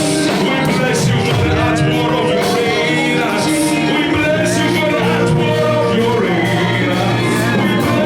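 Live church worship music with singing over a full band, with a steady beat of drums.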